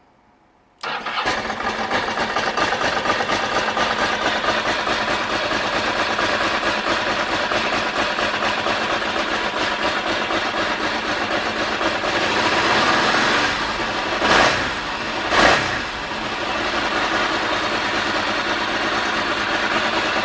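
2002 Ducati MH900E's 900 cc V-twin engine. It comes in suddenly about a second in and runs at a steady idle. It is blipped twice in quick succession about two-thirds of the way through, then settles back to idle.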